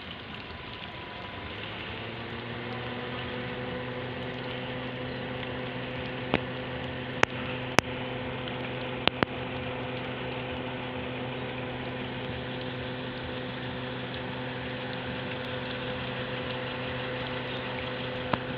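Small electric motor and fan spinning up about two seconds in, then running steadily with a hum and an airy hiss. A few sharp clicks come through in the middle.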